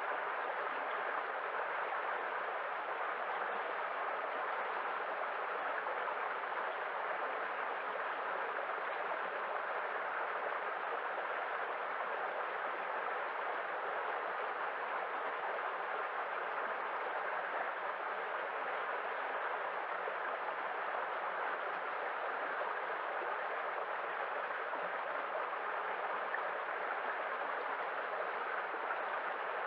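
Continuous rushing water, an even hiss with no distinct swells or breaks.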